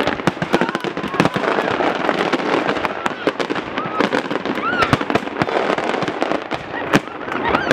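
Large aerial fireworks display: shells bursting overhead in a rapid, continuous run of sharp bangs.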